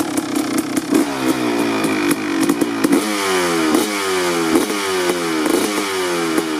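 Kawasaki KX250 motocross bike engine idling, then from about a second in revved in repeated quick throttle blips. Each blip jumps up in pitch and falls back, a little more than once a second.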